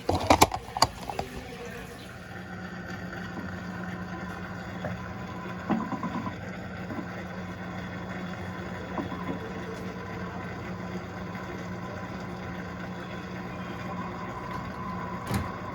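Electrolux LTA15 top-load washing machine's drain pump running steadily, a constant low hum as the wash water is pumped out. A few sharp knocks in the first second, with lighter ones later.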